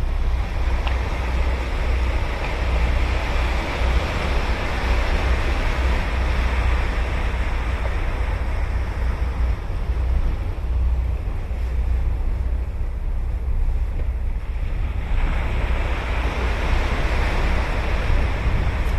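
Ocean surf breaking and washing up a beach in a continuous roar, with wind rumbling on the microphone. One wash dies down about halfway through, and another wave breaks about three-quarters of the way in.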